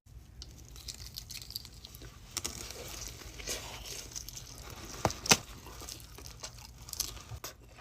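Fast-food packaging being handled: paper and plastic rustling and crinkling, with scattered small clicks and one sharper click about five seconds in.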